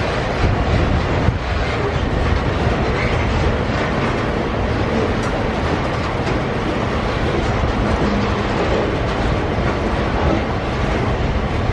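Loaded iron-ore freight wagons rolling past on the rails in a steady, loud rumble, with occasional wheel clicks.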